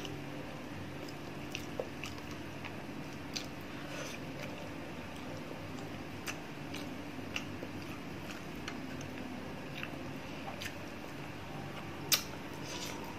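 A person chewing food with the mouth close to the microphone: scattered wet mouth clicks and smacks, the loudest near the end, over a steady low hum.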